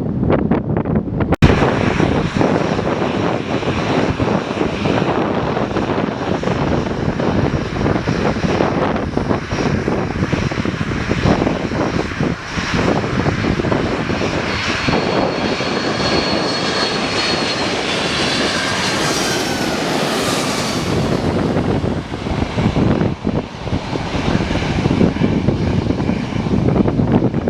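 Aircraft engines running loud and steady, with a high whine that falls in pitch about two-thirds of the way through. A sudden brief break about a second and a half in.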